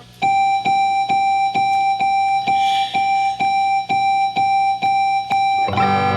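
Keyboard playing a single note over and over, about twice a second. Near the end a fuller chord with bass notes joins in.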